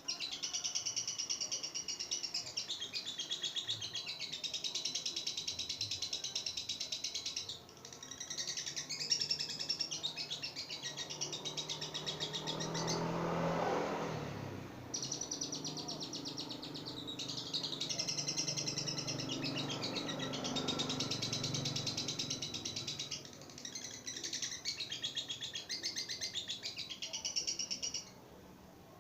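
Female lovebird singing in long, rapid chattering trills, each phrase running several seconds before a brief pause. About halfway through, a louder rushing noise swells and fades beneath the song.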